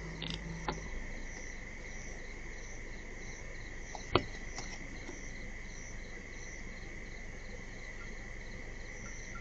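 Night insects, crickets, calling steadily: a constant high trill with evenly pulsing chirps above it. A single sharp click cuts through about four seconds in.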